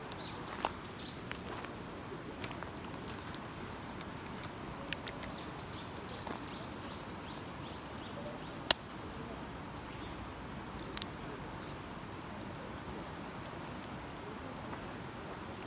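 Small songbird calling: a quick run of about eight chirps that each fall in pitch, with a few thinner high notes before and after, over a steady outdoor rush. A campfire gives a loud sharp snap about nine seconds in and a double snap about two seconds later.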